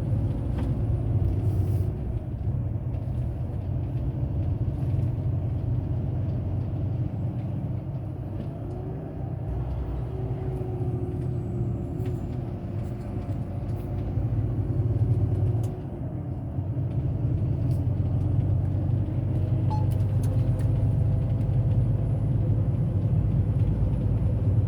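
Volvo truck driving on the road: a steady low engine drone with road rumble, its level rising and falling, easing off about 16 seconds in before building again.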